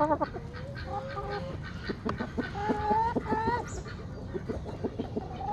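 Chickens clucking and calling around feed, in short pitched notes that come in small runs.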